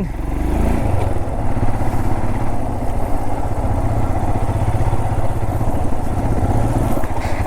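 Motorcycle engine running steadily while being ridden, with an even, fast pulse of firing strokes.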